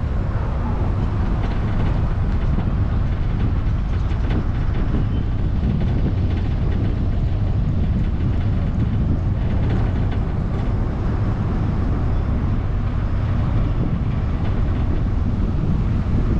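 Steady low rumble of a vehicle travelling on the road, with road and wind noise.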